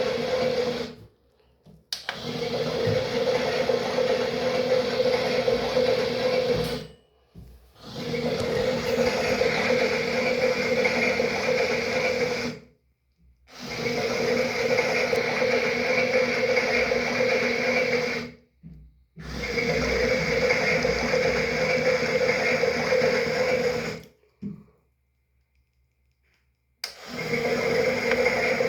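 Toy washing machine's small electric motor whirring steadily in runs of about five seconds, stopping briefly between runs as the drum works through a wash cycle, with a longer stop near the end.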